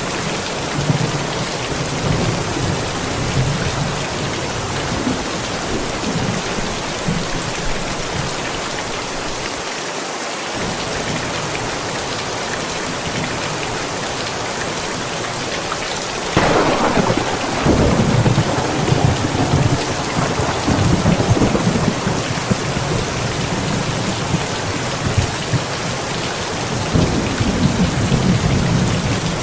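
Steady rain falling through a thunderstorm. Rolling thunder rumbles faintly early on; about halfway through a sharper thunderclap breaks and rolls on for several seconds, and another rumble rises near the end.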